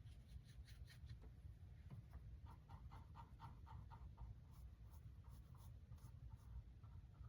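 Faint brush strokes of acrylic paint on canvas, with a quick run of short strokes around the middle.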